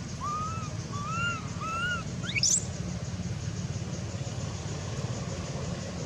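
A baby monkey gives three short arched squeaking calls, then one quick squeal that rises steeply about two and a half seconds in, over a steady low hum.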